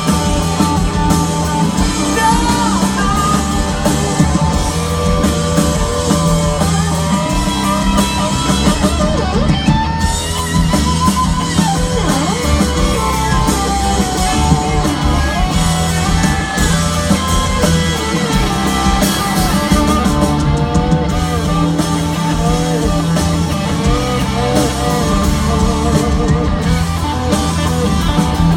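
A live rock band playing loudly through a concert PA, with electric guitar over bass and drums.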